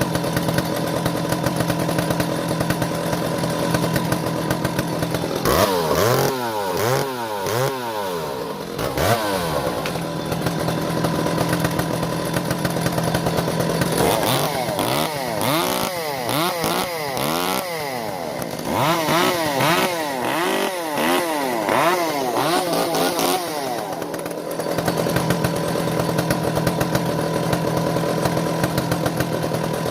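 Two-stroke Stihl chainsaw warming up after a cold start. It idles steadily and is revved up and down quickly in three spells: about five seconds in, around the middle, and again just after, before settling back to idle.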